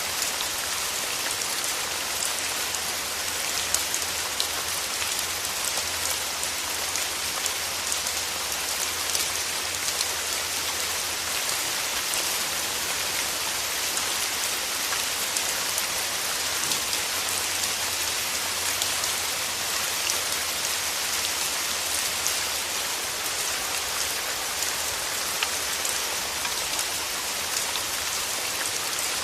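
Steady rain falling through forest trees, a dense even patter of drops on leaves with scattered sharper drop ticks.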